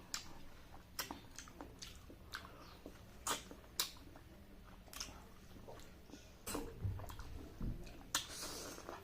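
Close-miked wet eating sounds from sucking and chewing ripe mango off its stone: irregular sticky lip smacks and sharp mouth clicks, with a few louder smacks.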